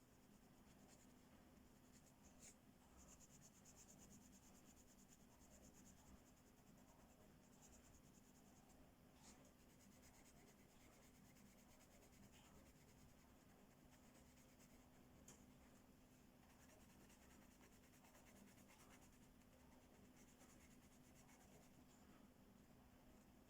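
Faint, steady scratching of coloring strokes on paper, with a few light ticks.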